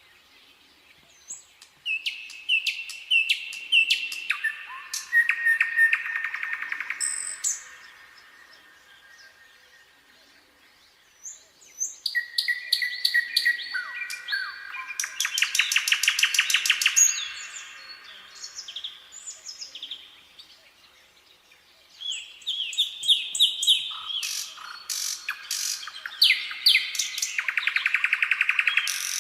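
Nightingale singing: three song phrases of whistled notes and fast runs of repeated notes, each a few seconds long, separated by pauses of about four seconds.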